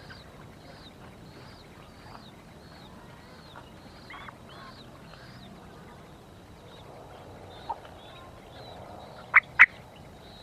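Lovebirds calling: a steady run of short high chirps, about two a second, then two sharp, loud squawks in quick succession near the end.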